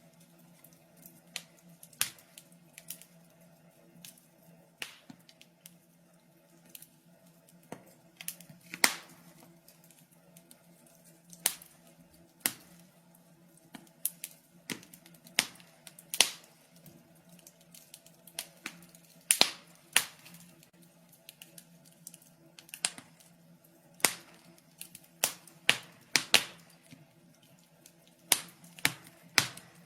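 Wood fire in a fireplace crackling, with irregular sharp pops and snaps, some loud, over a faint steady low hum.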